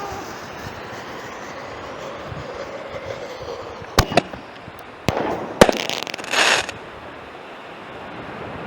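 Mobster Artillery Bombs ball shell firing from its mortar tube: a couple of sharp bangs about four seconds in, then a louder cluster of reports with one sharp crack, ending in a brief burst of crackling.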